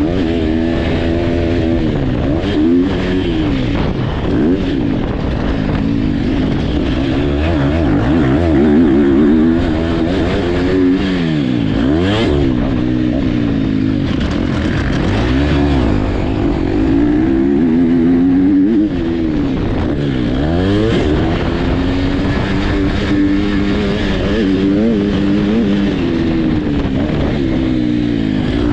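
Several motocross dirt bikes running on the track, their engines revving up and dropping back again and again every few seconds as the riders work the throttle.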